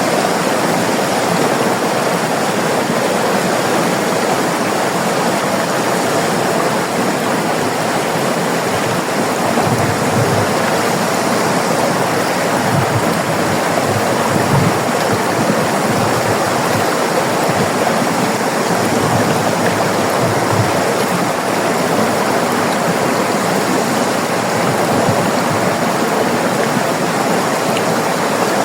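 River water rushing and splashing over rocks: a steady, even rush with no pauses.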